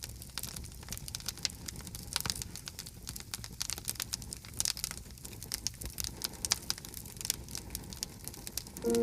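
Campfire crackling: wood popping and snapping in many quick, irregular sharp cracks over a low steady rumble.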